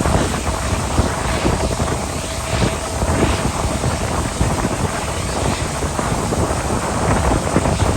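Wind buffeting the microphone, over a steady loud rushing noise.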